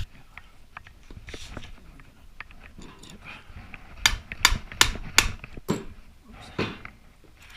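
Metal hand tools and small engine parts clinking and scraping against the motorcycle engine's cases. Light handling noise gives way to about half a dozen sharp metallic clicks in the middle.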